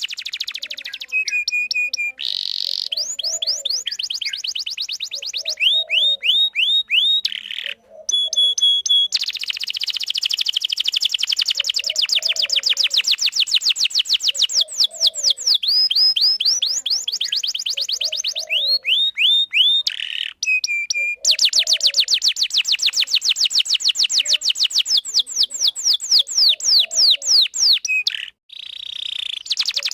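Domestic canary singing a long, continuous song: fast trills of rapidly repeated high notes, broken by short held whistles and rolling phrases, with only a few brief pauses.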